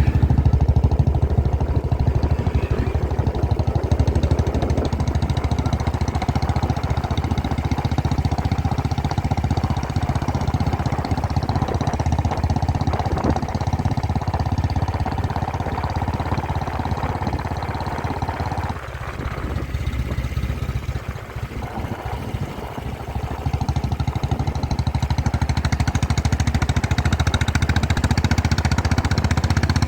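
Motorcycle engine running steadily under way; it eases off for a few seconds about two-thirds of the way through, then picks up again.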